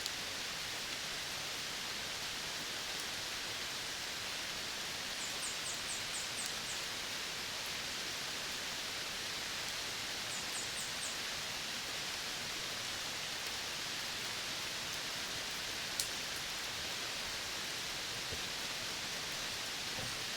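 Outdoor forest ambience: a steady, even hiss. Two short runs of rapid high ticks come about five and ten seconds in, and a single sharp click comes near the end.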